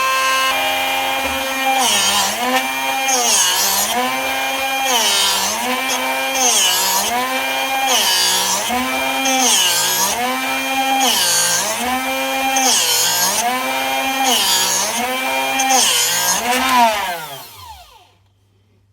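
Drill Doctor 750X drill bit sharpener's motor running, its tone dipping with a grinding hiss about every second and a half as the bit is turned in the sharpening port against the grinding wheel. Near the end the motor is switched off and spins down.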